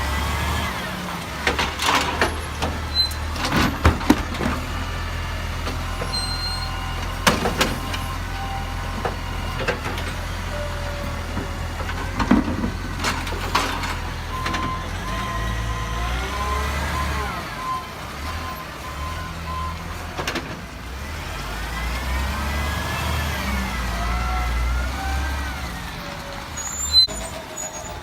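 Garbage truck's diesel engine running, with sharp knocks and clanks in the first half. A steady beeping tone sounds in the middle, and twice a whine rises and falls in pitch.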